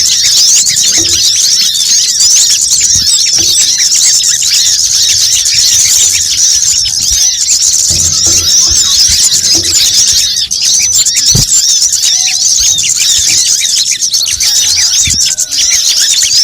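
Bird-lure recording: a dense, non-stop chorus of high, rapid chirps and twitters from several small birds, brown-throated sunbirds (kolibri kelapa) among them, calling noisily together.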